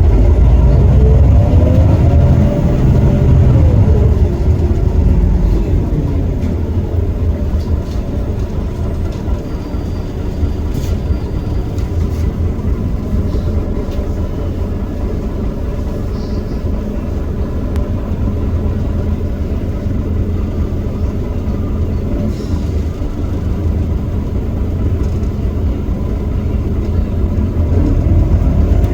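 Iveco Cursor 8 six-cylinder diesel of a Heuliez GX327 city bus: it runs loud under load at first, its pitch falling over the first few seconds as it eases off, then runs quietly and steadily. Near the end it revs up again as the ZF Ecomat automatic kicks down for hard acceleration.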